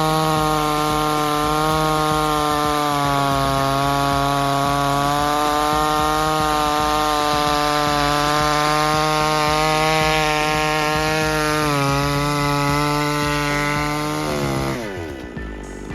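Two-stroke chainsaw running at high revs, cutting wood with a steady high pitch that wavers a little. About fifteen seconds in, the pitch falls away sharply and the saw goes quieter.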